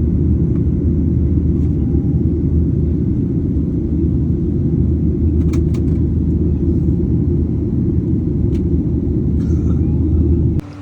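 A loud, steady low rumble with a few faint clicks, cutting off suddenly near the end.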